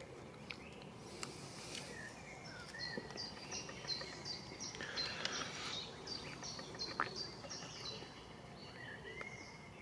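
A songbird singing a run of short, high repeated notes, about three a second, over faint background noise, with a few faint clicks.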